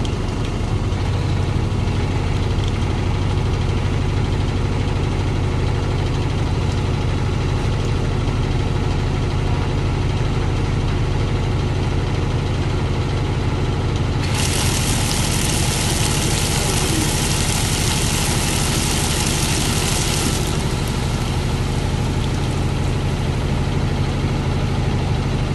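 Compact 4 kg washing machine on its spin cycle, the motor and drum giving a steady low hum. For about six seconds past the middle a loud hissing rush joins in, then stops.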